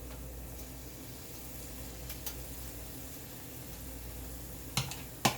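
Hot oil sizzling steadily as chicken fritter batter deep-fries, with two sharp clicks near the end.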